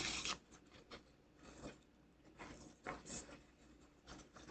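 Faint handling noises of a small glue tube and craft pieces being worked by hand: a short rustle at the start, then a few scattered small clicks and rustles.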